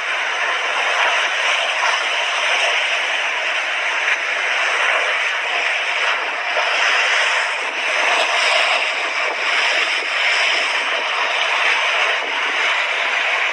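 Sea waves breaking and washing onto a beach: a continuous rush of surf that swells and eases slightly.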